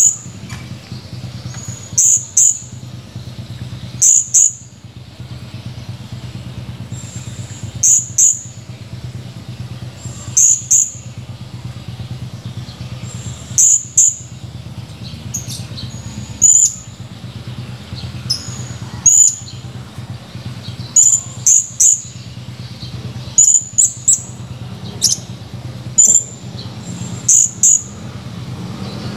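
Blue-crowned hanging parrot (serindit) giving sharp, very high call notes, mostly in quick doubles, repeated every two to three seconds. A steady low hum runs underneath.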